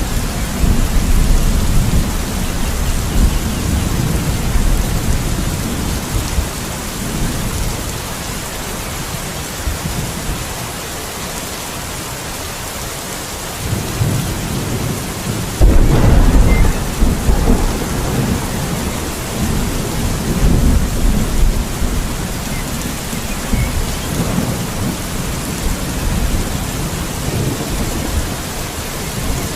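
Steady rain with rolling thunder: a low rumble dying away over the first few seconds, then a loud thunderclap just past the middle that rumbles on for several seconds and fades.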